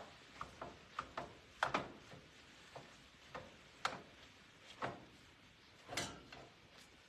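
Irregular light clicks and knocks of kitchen utensils and cookware, about a dozen over several seconds, the loudest near the start and about six seconds in.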